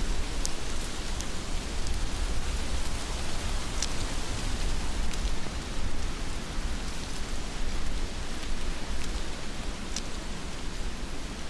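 Heavy rain falling steadily, a dense even hiss over a low rumble, with a few sharp ticks of single drops striking close by.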